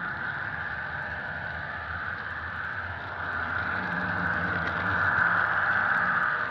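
Simulated EMD diesel locomotive engine sound from a Soundtraxx Tsunami DCC sound decoder, running steadily and growing louder partway through.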